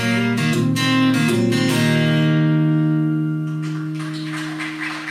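Acoustic guitar playing the closing bars of a song: a few quick plucked notes, then a final chord left to ring and slowly fade over about three seconds.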